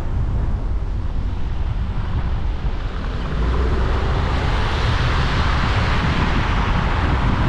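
A car driving on a wet road after snow: a steady low rumble with tyre hiss that swells from about halfway through.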